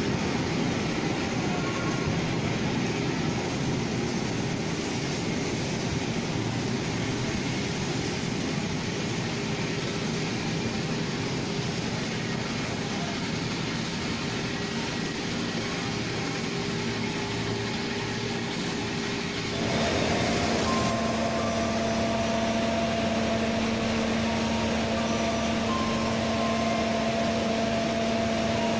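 Passenger train rolling slowly along the platform, a steady rumble. About two-thirds of the way in it gives way to a steady hum with a held low tone from a train standing at the platform.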